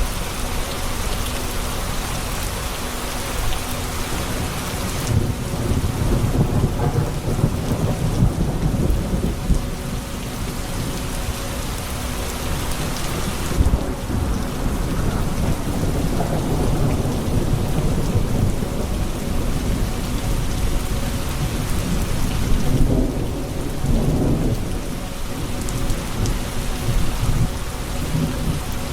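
Steady heavy rain hissing, with rolling thunder rumbling low beneath it that swells up about five seconds in and rises again several times.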